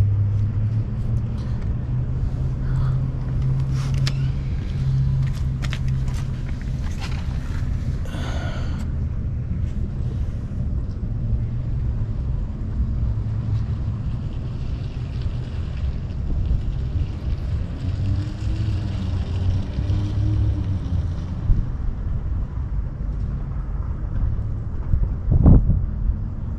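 Steady low rumble of a vehicle engine idling. A few light clicks and taps of small tools and paint containers being handled come in the first several seconds.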